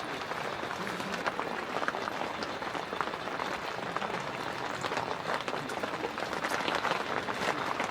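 Rain falling on tent fabric: a steady hiss of drops with scattered sharper taps.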